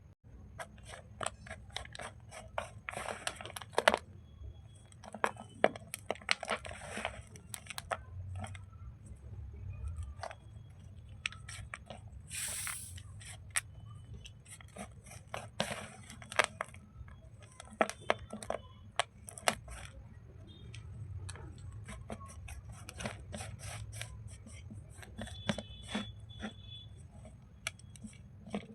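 Wet slate bars and chips being crushed and crumbled by hand: a steady run of irregular crunches and crackles, with short hissing scrapes now and then, the loudest about twelve seconds in.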